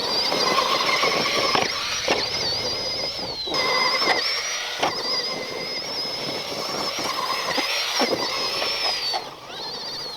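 Axial SMT10 Grave Digger RC monster truck's electric motor and metal-gear transmission whining at a high pitch, wavering with the throttle and dropping out briefly twice. Several sharp knocks of the truck bouncing and landing are mixed in.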